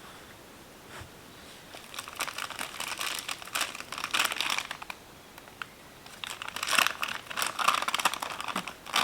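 Plastic packaging being crumpled and handled in two stretches of dense, irregular crinkling, the second running up to the end.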